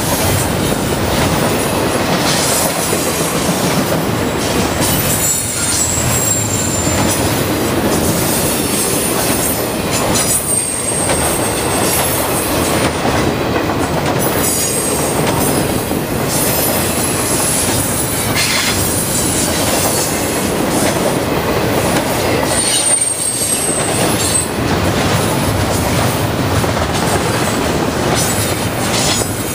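Norfolk Southern double-stack intermodal train's well cars rolling past, a steady loud noise of steel wheels on rail. A few brief high wheel squeals come through it.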